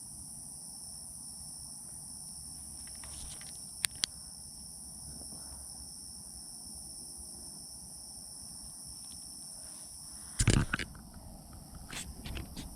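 Night-time chorus of crickets and katydids, a steady high shrill trill throughout. Two sharp clicks come about four seconds in, and a louder knock or handling rustle about ten seconds in, with a few smaller clicks near the end.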